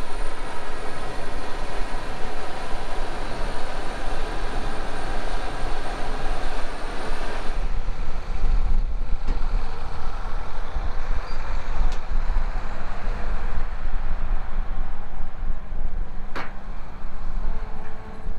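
Farm tractor running steadily in the field while it hauls a water tank, a low rumble with a broad hiss over it; the higher hiss drops away about eight seconds in.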